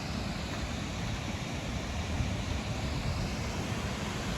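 Steady rush of a waterfall's falling water, a continuous noise heavy in the low end.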